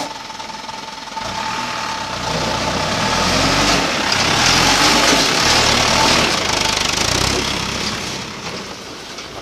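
Dump truck engine working hard, getting louder over a few seconds, with its pitch shifting, and then fading away.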